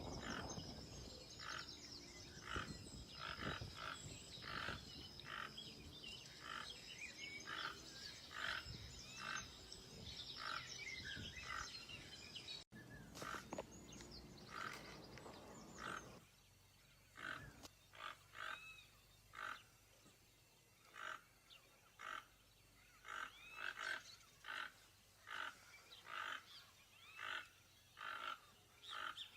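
Toucan calling: a short croak repeated about once a second, with a steady high whine behind it that stops about halfway through.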